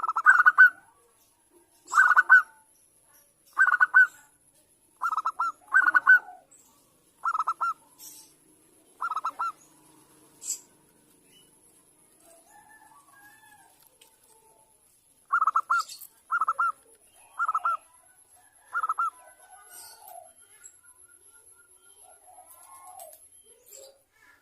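Zebra dove (perkutut) cooing in short, rapid trilled phrases, about seven in the first ten seconds, then a pause and four more. It is played as a female's call to draw a male into answering.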